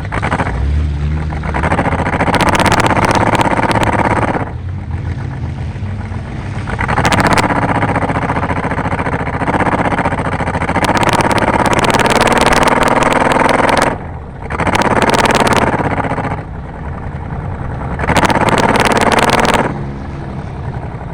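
Racing junk cars' engines revving hard in repeated surges of throttle, each lasting a couple of seconds, with the pitch rising and falling and dropping back between surges.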